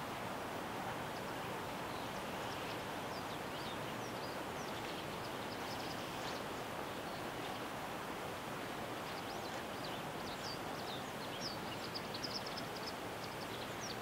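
Steady rushing background noise with short, high, thin bird chirps scattered through it, coming thicker in the second half and loudest about twelve seconds in.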